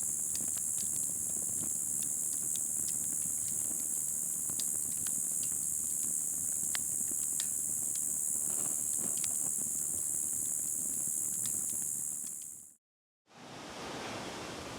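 Steady high-pitched hiss with scattered sharp crackles from a metal-cutting or welding process. It cuts off suddenly near the end and, after a brief gap, gives way to a different, broader rushing noise.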